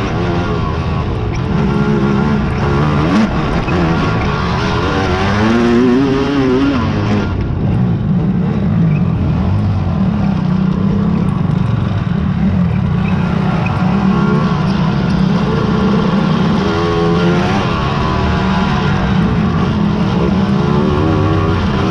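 Several racing quad (ATV) engines revving, the engine notes rising and falling with the throttle and overlapping as the machines pass.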